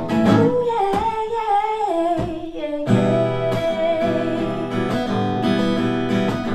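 Acoustic guitar strummed steadily, with a wordless vocal melody over it that glides downward and then holds a long note.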